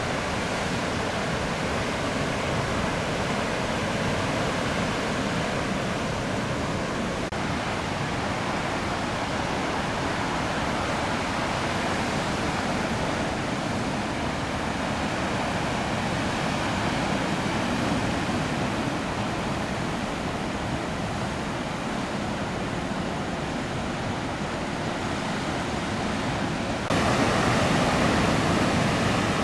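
Steady roar of heavy surf from a typhoon swell, waves breaking continuously. It turns abruptly louder near the end.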